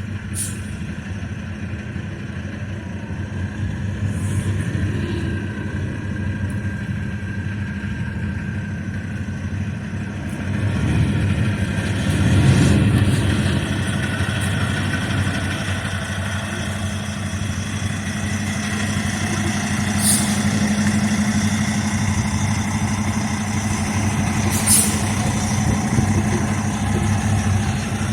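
Semi-truck engine running steadily with a constant low hum, growing louder for a few seconds about twelve seconds in, with a few short clicks.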